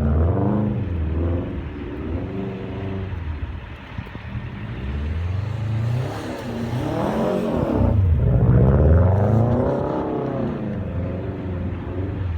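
Subaru WRX STi's turbocharged flat-four engine revving, its pitch rising and falling in several swells, quieter for a moment about four seconds in.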